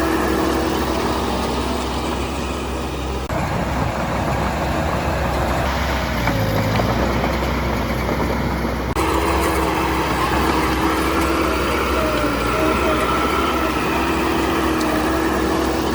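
Heavy diesel engine of an earthmoving machine running steadily. The sound changes abruptly about three seconds in and again about nine seconds in.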